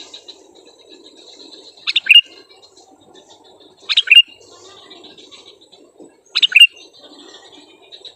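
Sooty-headed bulbul (kutilang) calling: a loud, short double-note call given three times, about every two seconds, over faint continuous background chatter.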